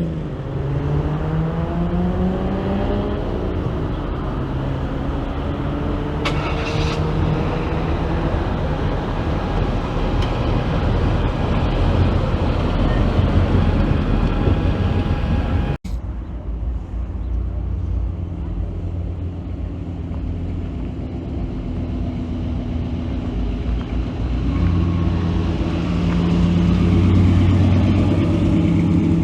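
Classic car engines driving by. One pulls away with its pitch rising over the first few seconds, the sound cuts off abruptly about halfway through, and another engine grows louder near the end.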